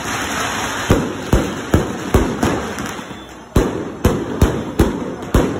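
Aerial fireworks going off overhead: a rapid string of about ten sharp bangs, two or three a second, with a short lull in the middle and crackling through the first second.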